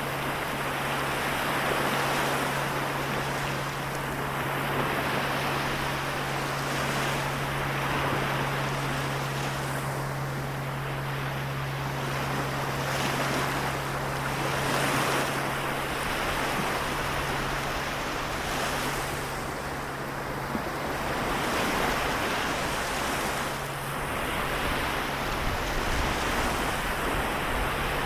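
Small waves of the Seto Inland Sea washing in and drawing back, swelling and easing every three to four seconds. A steady low hum runs underneath, dropping away for a few seconds past the middle before returning.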